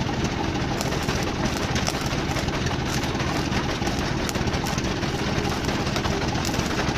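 A machine running steadily with a fast, even rattle, engine-like.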